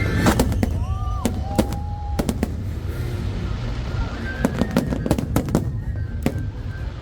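Aerial fireworks bursting in quick succession at a large sea fireworks display: a steady string of sharp bangs and cracks.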